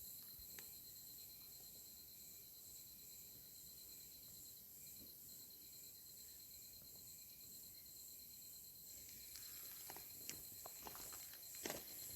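Faint insect chirping: a high, steady, evenly pulsing trill of the kind crickets make. Soft rustles and clicks come in during the last few seconds.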